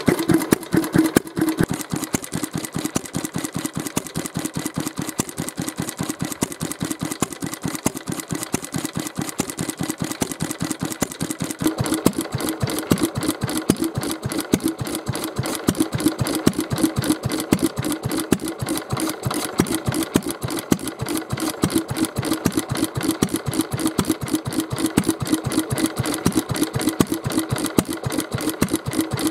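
Mitsubishi J1A-type single-cylinder kerosene stationary engine running steadily, each firing stroke heard as an even, rapid chugging beat.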